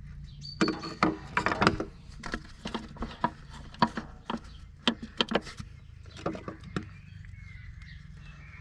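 Hand grease gun being pumped into the grease nipple of a bulldozer steering-clutch thrust bearing: a run of irregular clicks and knocks, densest over the first couple of seconds, over a steady low hum.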